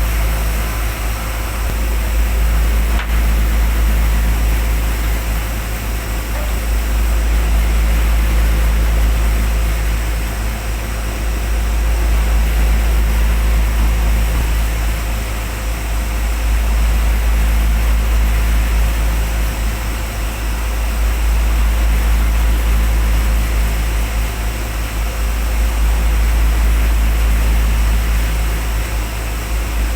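Oxygen plant machinery running steadily: a deep rumble under a broad hiss with a faint low hum, swelling and easing about every four to five seconds.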